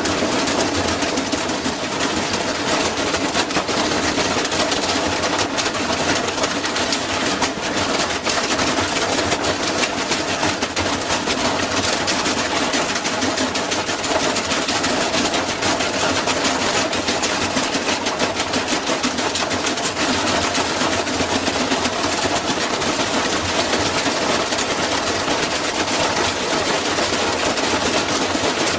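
A washing machine running with a brick tumbling in its drum, making a continuous, rapid, loud clattering and banging.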